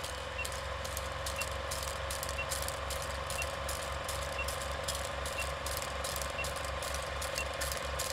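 A car engine running steadily, with a short high beep about once a second and irregular ticking clicks over it.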